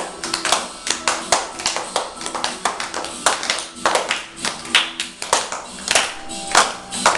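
Hands clapping along to a song playing in the background, with many sharp claps in an uneven rhythm.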